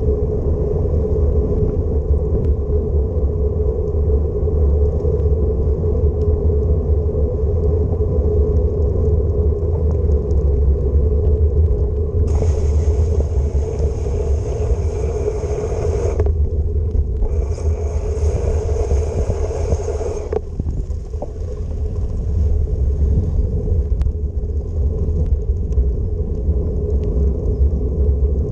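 Wind buffeting the microphone of a camera on a moving bicycle: a steady low rumble. Twice about halfway through, a stretch of hiss lasts a few seconds.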